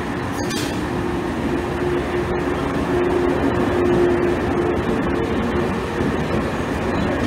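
A JR West 117 series electric train moving alongside the station platform: steady wheel-on-rail running noise with a hum underneath, loudest around the middle.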